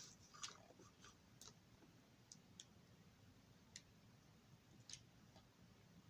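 Near silence with a few faint, light clicks spread out, from a plastic model train car being handled.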